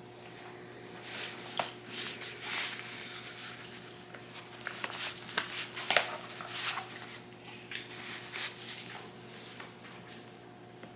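Scattered rustling and light clicks of something being handled, most of them in the first two-thirds, the sharpest about six seconds in, over a faint steady electrical hum.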